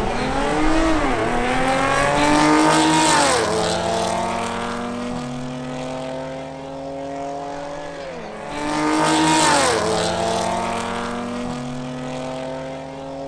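A supercharged Audi S4 and a Mercedes CLA 45 AMG accelerating flat out side by side down a quarter-mile drag strip. Their engines climb in pitch and drop back at each upshift, several times in a row.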